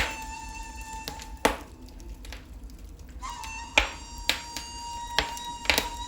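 Wood fire in a fireplace crackling, with several sharp pops scattered through. Under it a held instrumental note of background music breaks off for a moment and then comes back.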